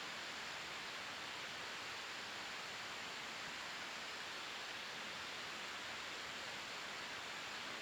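Wood fire burning in a fire pit, a steady soft hiss with no distinct crackles or pops.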